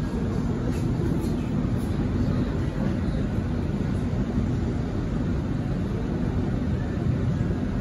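Interior running noise of a CRRC-Downer Rail B-set electric train carriage in motion: a steady low rumble of wheels on rail with a faint hum underneath.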